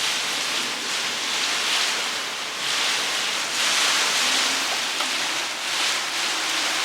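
Storm wind and rain gusting steadily, swelling and easing every second or two.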